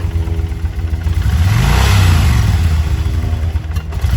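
2007 Kawasaki Vulcan Nomad 1600's liquid-cooled V-twin idling, then revved a little over a second in, holding high before dropping back to idle, and starting to rev again at the very end.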